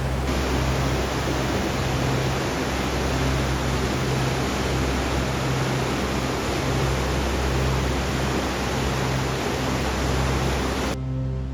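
Steady rushing of a fast mountain river, even and unbroken, over soft background music; the rush cuts off abruptly near the end, leaving the music.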